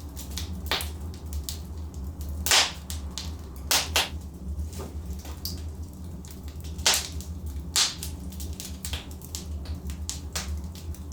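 Wood logs burning in a fireplace, crackling with irregular sharp pops over a steady low rumble. The loudest pops come about two and a half seconds in, twice around four seconds, and near seven and eight seconds.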